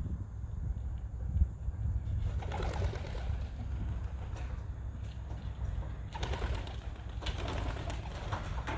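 Racing pigeons cooing, in two spells about a second in length and two seconds in length, over a steady low rumble.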